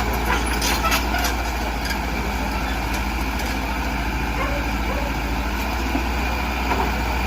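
Diesel engine of heavy earthmoving machinery running steadily, with a few sharp clicks in roughly the first second and a half.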